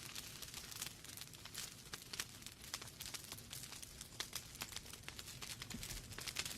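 Wood fire burning in a fireplace: logs crackling and popping with many irregular sharp snaps over a soft steady hiss of the flames.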